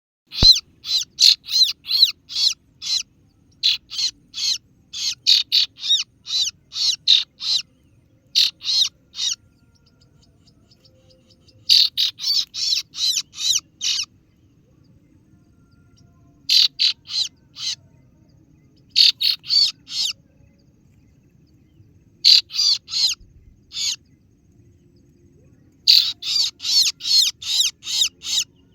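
Kaso-kaso bird lure call: bursts of short, sharp 'ciet ciet' chirps, about three notes a second, several notes to a burst, with pauses of one to two seconds between bursts.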